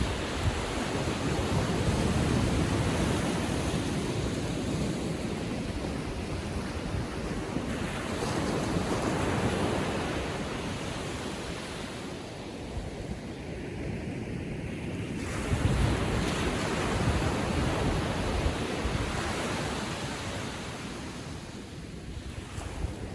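Small ocean waves on a calm sea breaking and washing up the beach, the surf swelling and fading about every seven seconds, with wind rumbling on the microphone.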